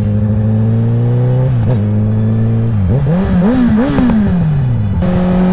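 2021 Honda CBR1000RR's inline-four engine running with a steady note that creeps up in pitch. Then the throttle is blipped several times in quick succession, the revs rising and falling, before the engine settles back to a steady note near the end.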